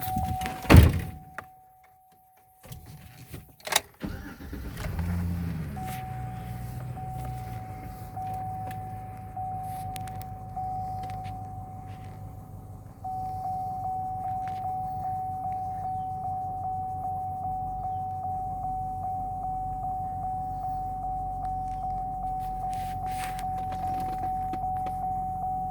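A loud thump, then the GMC Sierra pickup's engine cranks and starts about five seconds in and settles into a steady idle. Over it a dashboard warning chime beeps on and on, about twice a second, louder from about halfway through. The owner believes the beeping comes from the ABS fuse being out.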